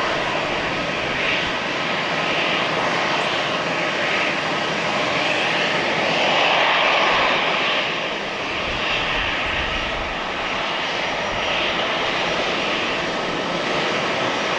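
Jet engines of a Boeing 747-8, its four GEnx turbofans running steadily, with a faint steady whine and slow swells in level.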